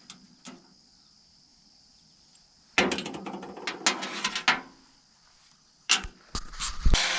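Sheet-metal work on a truck fender: a quick clatter of metal taps and knocks lasting about two seconds, then a few sharp knocks near the end.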